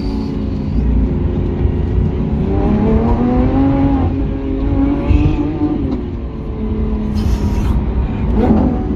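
Lamborghini Aventador SVJ's V12 through a Balboni exhaust, climbing in revs about three seconds in, holding, then falling back around six seconds, with a short rise and fall near the end, over steady low road noise.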